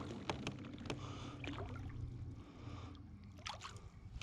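Quiet water sloshing and trickling at a kayak's side, with scattered small clicks and knocks of handling, and a faint steady low hum underneath.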